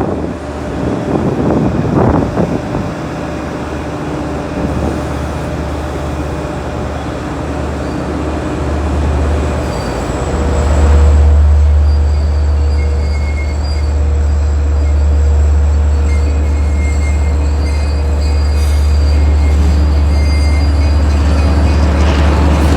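A train rumbling through the station, its low rumble swelling about ten seconds in and holding steady, with thin high steady tones over it.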